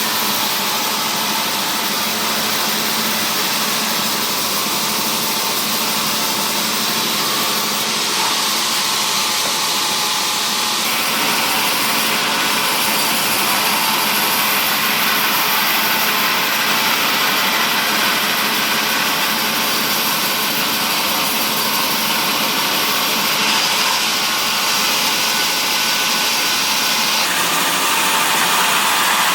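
Sawmill machinery cutting mahogany wood: a loud, steady, hissing mechanical noise whose tone shifts slightly a few times, around eight, eleven and twenty-seven seconds in.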